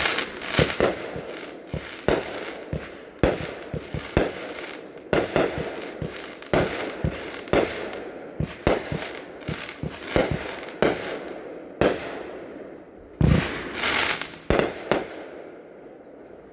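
A 25-shot consumer fireworks cake firing its shots in quick succession, one or two sharp bangs a second with a rushing noise between them. The loudest cluster comes about 13 to 15 seconds in, then it dies away near the end.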